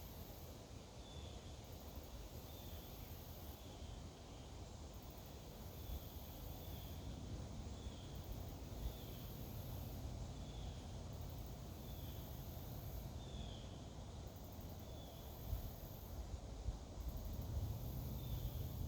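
Outdoor woodland ambience. A high insect chorus pulses on and off about every second, and a short chirp repeats at a steady pace over a low rumble.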